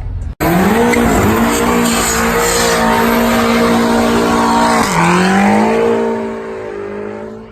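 Car engine running hard at high revs with a steady pitch. About five seconds in the pitch drops and climbs again, as at a gear change, and the sound then fades away.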